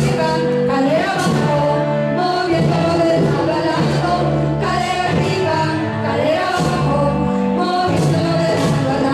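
A song: voices singing a melody over instrumental backing.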